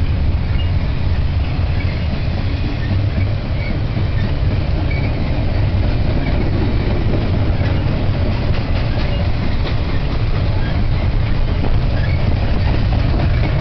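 Loaded double-stack intermodal well cars rolling past on the rails: a steady low rumble with wheels clicking over rail joints, the clicks more frequent in the second half.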